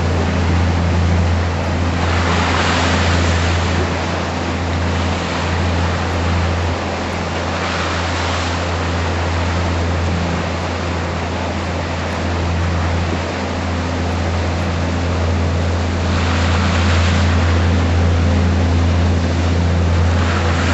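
Tour boat's engine running with a steady low hum, under a rushing hiss of wind and water that swells several times.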